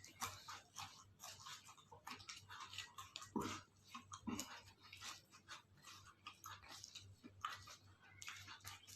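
Close-up chewing and crunching of food in the mouth: many short, quiet, uneven clicks and crunches, with a brief low mouth sound about three and a half seconds in.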